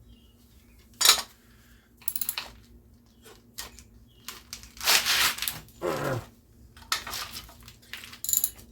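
Metal hand tools and small engine parts clinking and clattering in a series of separate sharp knocks while a small engine is being taken apart, busiest about five seconds in.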